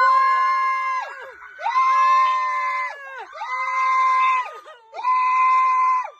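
Four long, high-pitched screams in a row, each about a second, with short breaks between them and the pitch dropping off at the end of each.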